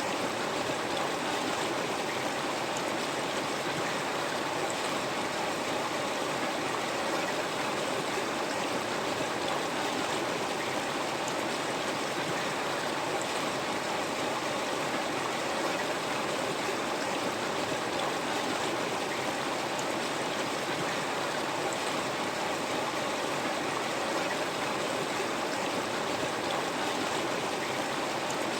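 River water flowing steadily over rocks: a constant, even rush with no breaks.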